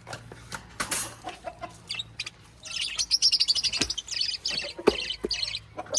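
Lovebirds chirping in a rapid, high chatter that starts about halfway through, with a few sharp knocks around it.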